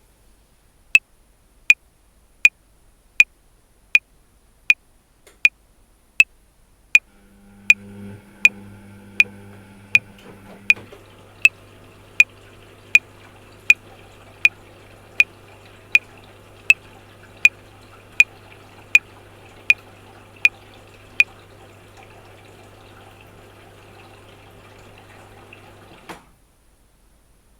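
Metronome clicking steadily at 80 beats per minute, about 28 even clicks, which stop about three quarters of the way through. Under the clicks, a steady low hum with a faint rushing noise comes in about a quarter of the way in and cuts off suddenly near the end.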